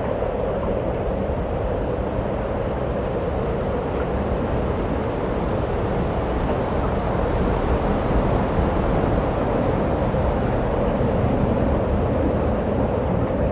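Strong wind blowing steadily and buffeting the microphone, a constant low rumbling rush with no breaks.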